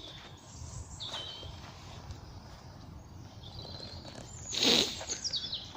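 Small woodland birds chirping in short high calls, some stepping down in pitch. About four and a half seconds in comes one brief, louder rustle or crunch.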